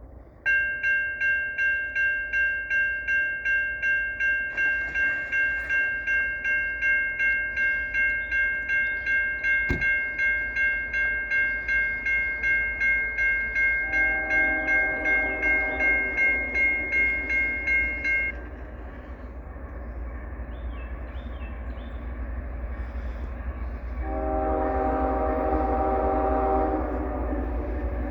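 Nathan K5HL five-chime air horn on a CSX GE ES44AH diesel locomotive, sounded for the grade crossing as one long, loud blast of about 18 seconds that cuts off suddenly. Then the locomotive's diesel engine and the rumble of the passing train.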